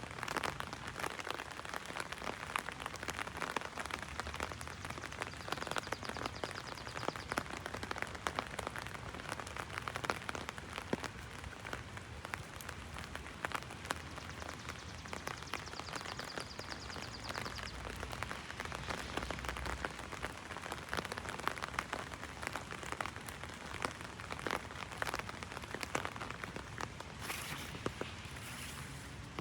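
Heavy rain falling on an umbrella: a dense, steady spatter of raindrops striking the canopy overhead.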